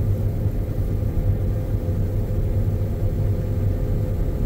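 John Deere X9 combine running steadily under load, heard inside the cab as an even low hum with a faint steady tone above it.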